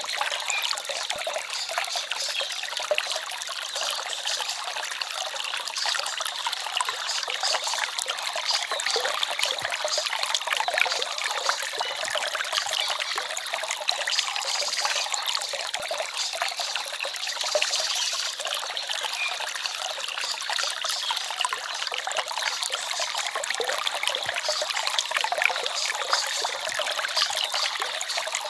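Small forest stream trickling and babbling over stones, steady and unbroken, with its sound lying in the higher register and no low rumble.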